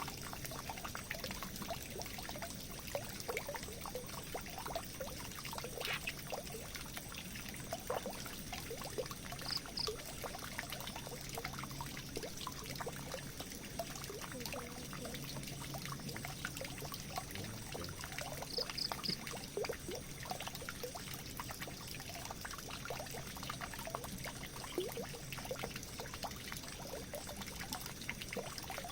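Water pouring and trickling steadily, with many small splashes and drips through the flow.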